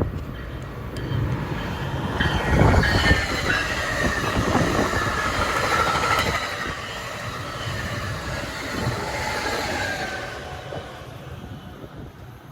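Passenger train passing on the Northeast Corridor: a rumble of wheels on rail with repeated clacks. High steady whining tones sit over it from about two to ten seconds in, and the sound fades near the end.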